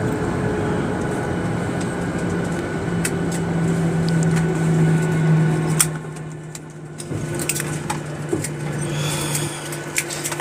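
Airliner cabin noise on the ground just after landing: a loud rushing sound over a steady low engine hum. About six seconds in the rushing falls away sharply, leaving a quieter steady hum with a few small clicks and rattles.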